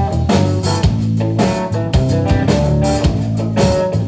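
Live blues band playing an instrumental passage: electric guitar and bass over a steady drum kit beat.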